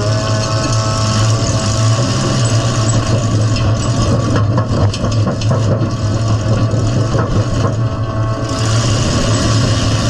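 Demolition derby car's engine running loud, heard from inside the stripped cab, with short clanks and rattles from the gutted body as the car maneuvers.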